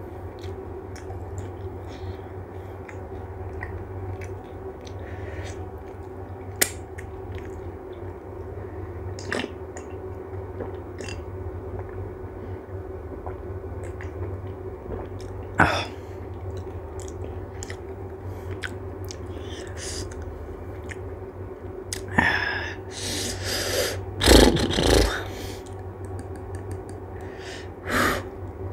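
A person chewing pani puri close to the microphone, with scattered short crisp clicks over a steady low hum. A run of louder sounds comes about 22 to 25 seconds in, and one more near the end.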